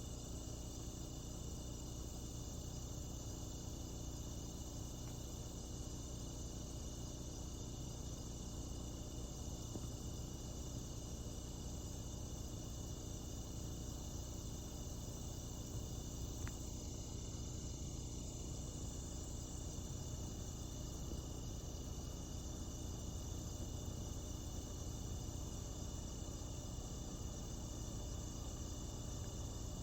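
Steady high-pitched chorus of insects chirring in the open, over a faint low rumble, with no train yet in earshot.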